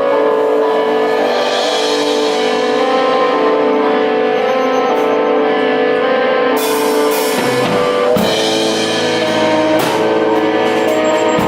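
Rock band playing: held, ringing chords, with the drum kit coming in on cymbal crashes and hits a little over halfway through.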